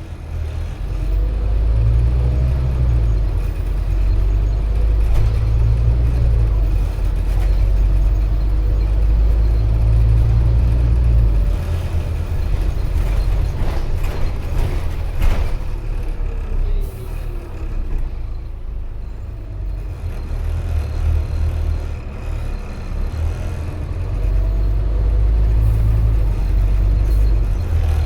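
Scania OmniCity N230UD double-decker bus heard from on board, its engine and drivetrain making a deep rumble as it pulls along, with pitch steps as it changes gear. About halfway through it eases off, with a click and a short falling whine, then pulls away again near the end.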